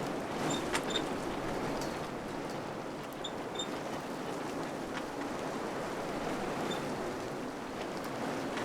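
Wind blowing steadily in gentle swells, with a few faint short ticks in the first second and around three seconds in.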